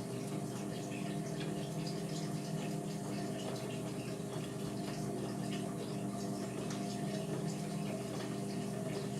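Indesit washing machine running mid-cycle on a cotton wash: a steady motor hum with water splashing and trickling inside the drum.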